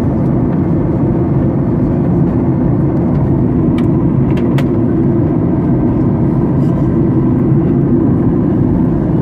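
Airliner cabin noise on the ground after landing: a loud, steady low rumble from the running engines and air systems, with a few faint clicks near the middle.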